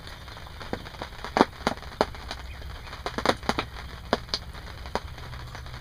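Raindrops hitting the fabric roof of a hunting ground blind: irregular sharp taps, a few a second, over a low steady rumble.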